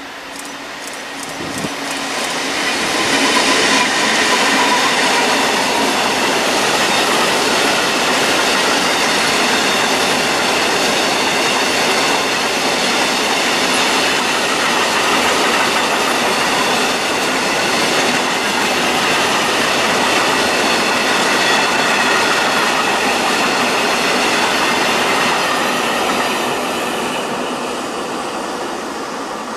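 Freight train of covered hopper wagons passing close by: wheels rumbling and clattering over the rails, with steady high ringing tones from wheels and rails. It swells over the first few seconds as the locomotive arrives, holds steady while the wagons roll past, and fades in the last few seconds.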